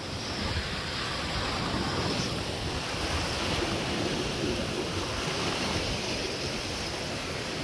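Ocean waves washing onto the beach, with wind buffeting the microphone.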